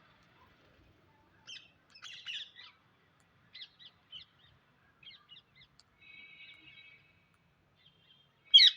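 Psittacula parakeets calling: a scatter of short, sharp chirps, then one loud shriek near the end.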